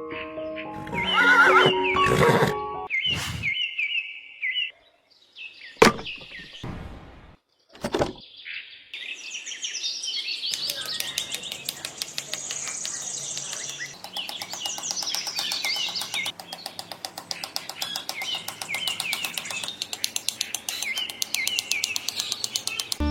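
Birds chirping in short repeated calls over background music, with two sharp knocks about six and eight seconds in. From about ten seconds in, a fast, even ticking runs under the chirps.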